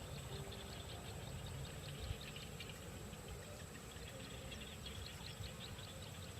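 Small birds chirping: many short, high peeps in quick succession, faint, over a steady low rumble.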